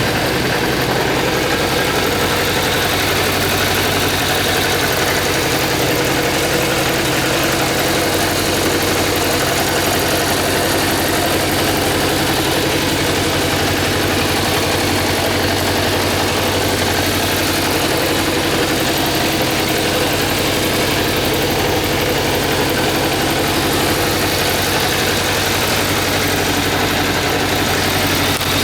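Suzuki GSX400F's air-cooled inline-four engine idling steadily, with no revving.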